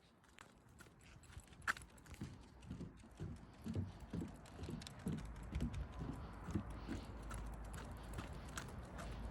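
Footsteps on a hard surface at a steady walking pace, about two steps a second, growing louder over the first few seconds.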